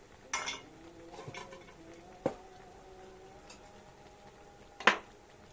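Kitchenware knocking and clattering: three sharp knocks, about half a second in, just after two seconds and near the end, the loudest being the last, with a faint metallic ringing hanging on after the first.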